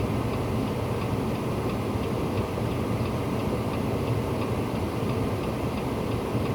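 A vehicle engine running steadily, with a fast, even ticking over it.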